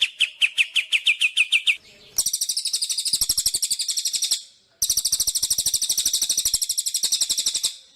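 A recorded songbird giving fast runs of repeated sharp chirps, about ten a second. First comes a series of down-slurred notes, then two long, high trills with a short break between them, stopping near the end.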